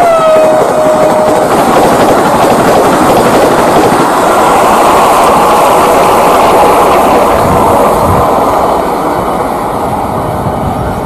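Vande Bharat Express electric trainset running past, a steady loud rush of wheels on rails. The tail of its horn drops in pitch and ends about a second and a half in.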